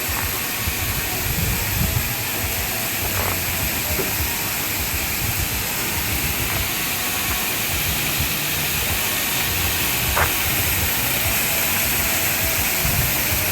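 Steady rushing of a tall waterfall, an even hiss without a break.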